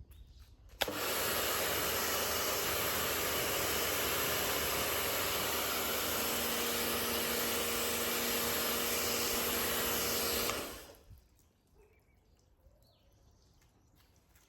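Steady hiss of water spraying onto a car's paint and glass during a rinse. It starts abruptly about a second in, runs evenly for about ten seconds, and dies away quickly.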